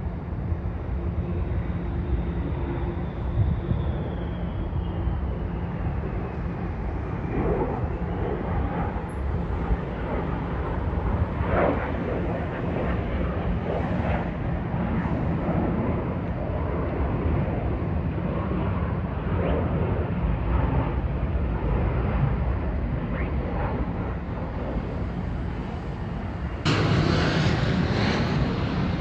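Fighter jets flying over: a steady low rumble, with a high whine falling in pitch a few seconds in, then a sudden louder rush near the end.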